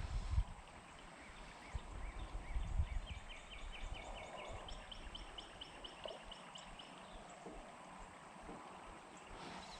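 A songbird singing rapid trills of evenly repeated chirps, first a lower run and then a higher one, over steady outdoor background noise. Low wind rumble on the microphone near the start.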